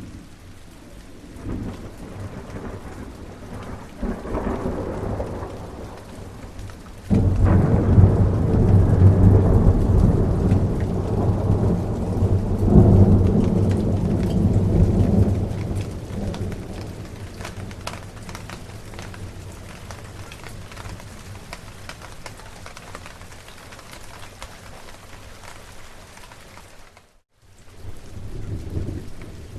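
Steady rain with rolling thunder. A loud thunderclap breaks in suddenly about seven seconds in and rumbles on for several seconds before fading. The sound cuts out for a split second near the end, and another rumble follows.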